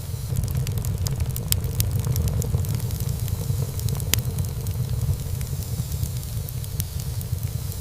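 Wood fire in a fireplace crackling and popping over a steady low rumble of the flames. There are sharp pops about a second and a half in and about four seconds in.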